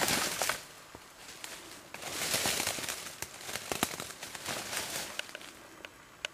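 Footsteps crunching and rustling through dry leaf litter and low shrubs, in a few short bouts with sharp crackles of snapping twigs and leaves.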